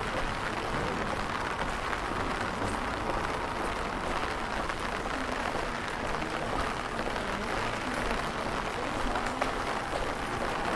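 Steady rain falling on a wet cobblestone street, an even hiss with no distinct events.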